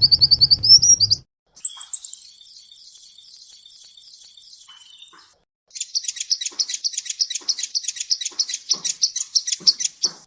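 Recorded songbird song in three spliced pieces. A warbling phrase of quick notes cuts off about a second in, then a fast, even, high trill runs for about three and a half seconds. After a short gap comes a rapid run of sharp repeated chirps that stops near the end.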